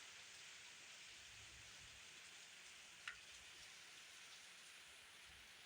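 Steady, faint hiss of rain falling, with a single sharp tick about three seconds in.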